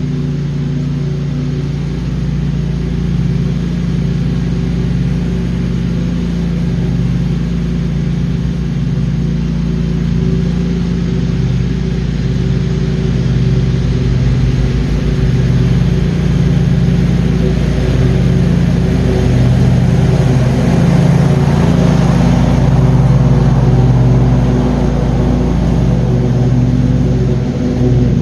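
Engine of a John Deere QuikTrak 652R stand-on mower running steadily at mowing speed with the blades engaged. The sound swells louder and coarser about two-thirds of the way through, then eases slightly near the end.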